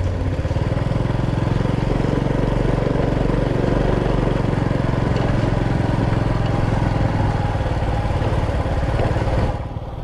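Motorcycle engine running at a steady speed while riding, its exhaust pulsing evenly, dropping away sharply near the end.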